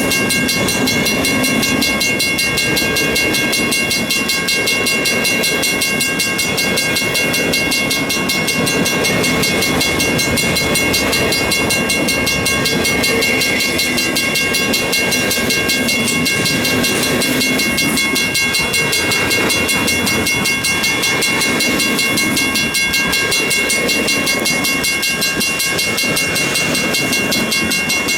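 Long freight train's cars rolling steadily past, a continuous rumble with clickety-clack of the wheels. Steady high-pitched tones sound over it throughout.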